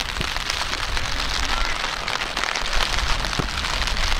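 Steady rain falling, a dense hiss with many small drop ticks and a low rumble underneath.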